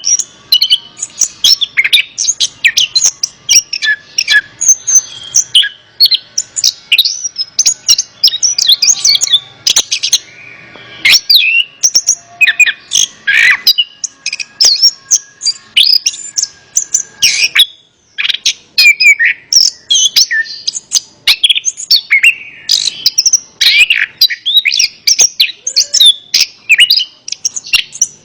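Orange-headed thrush song: a fast, continuous run of varied sweeping whistles and chattering notes, broken by a brief pause a little past halfway.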